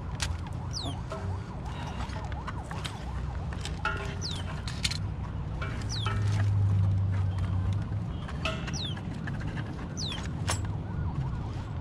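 A bird's short, high whistled calls, each falling in pitch, repeated every second or two. Under them are a steady low rumble that swells about six seconds in and a few light clicks from handling the network cable.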